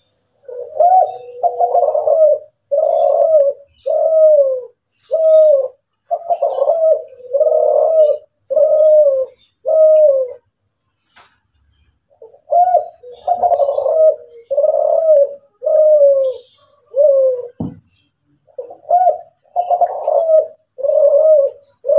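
Derkuku Kelantan, a spotted dove, cooing (manggung): long runs of deep coos, about one a second, broken by a pause of about two seconds near the middle. Faint high chirps of small birds can be heard behind it.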